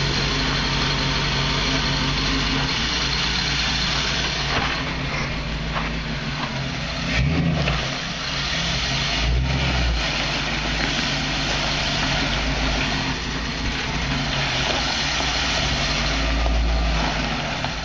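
Off-road vehicle engine running at low speed while crawling over rocks, with a few brief rises in revs.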